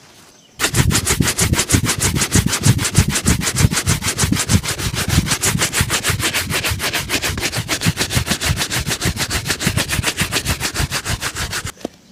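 Fast, even back-and-forth rubbing strokes on a shoe during a shoe shine, several strokes a second. They start just under a second in and stop shortly before the end.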